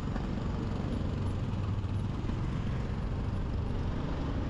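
Motorbike riding through city traffic: steady engine rumble and road noise.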